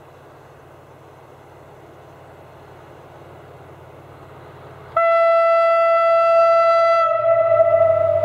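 SA106 diesel railcar idling with a low steady engine hum, then sounding its horn: a sudden loud, held, single-pitched blast about five seconds in that carries on to the end, its tone thinning slightly after about two seconds as the engine note grows louder, the train setting off.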